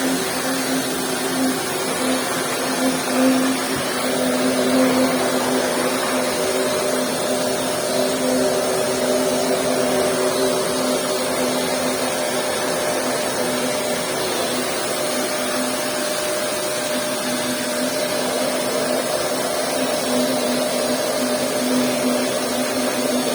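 Vacuum cleaner running steadily with a constant hum and rushing air, its nozzle being drawn over a sleeping cat's fur to pick up shed hair.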